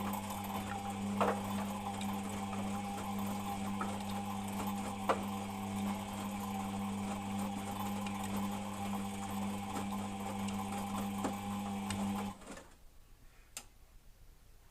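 Beko WMP 601 W washing machine turning its drum on the wash cycle: a steady motor hum with scattered light clicks, cutting off suddenly about twelve seconds in, followed by faint ticks. It is meant to show a bit of a grinding noise that the machine makes while the drum turns but not on spin; its cause is unknown.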